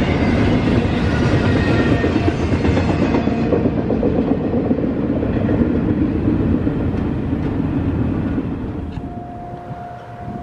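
Norfolk Southern freight train cars rolling past on the rails, a loud, steady rumble and clatter of wheels with faint wheel squeal, dying away near the end as the train clears. About nine seconds in, a steady single tone begins.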